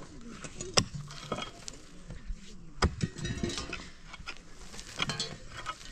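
Clinks and knocks of cooking pots and utensils being handled, with a few sharp knocks spread over several seconds.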